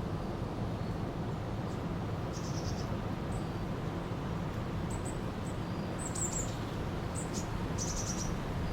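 A river flowing steadily, with small birds giving short high chirps and trills several times over the rush of water.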